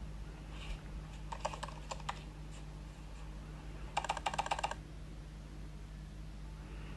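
Two short runs of rapid clicking, about a second and a half in and again about four seconds in, over a steady low hum.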